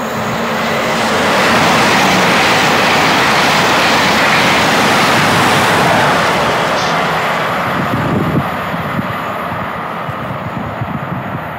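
A train passing at speed: a loud rushing of wheels and air that builds over the first two seconds, holds, and fades away after about six seconds.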